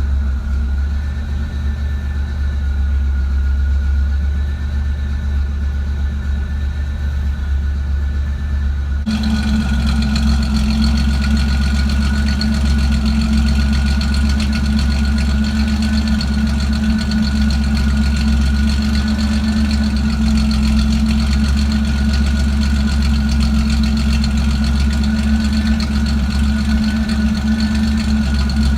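Car engine idling steadily, with the misfire that the owner is trying to track down. About nine seconds in, the sound turns brighter and fuller while the engine's pitch stays the same.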